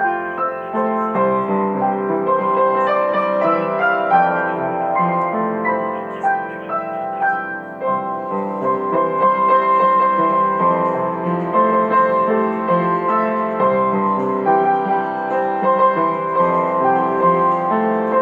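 Gentle piano music, many notes held and changing at a steady flowing pace.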